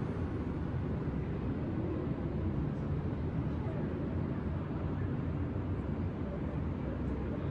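Steady low rumble of distant city traffic, an even wash of noise with no single vehicle standing out.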